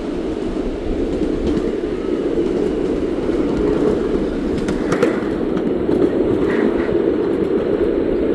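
Steam train running along the track: a steady rumble with a few faint clicks from the rails.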